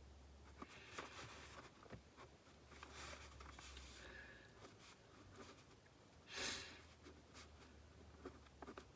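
Near silence in a small enclosed space: faint room tone with a few soft clicks and one brief hiss about six and a half seconds in.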